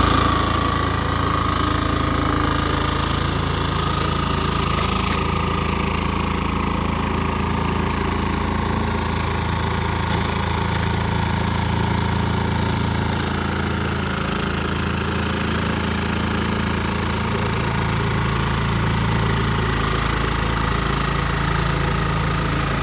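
LM800 remote-controlled lawn mower's engine running at a steady speed, with a thin, constant whine above the rumble.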